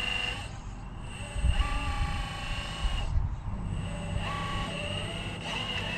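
RC crawler truck's small electric motor and gears whining as it drives, the whine shifting in pitch and stopping briefly about three seconds in. Wind rumbles on the microphone underneath.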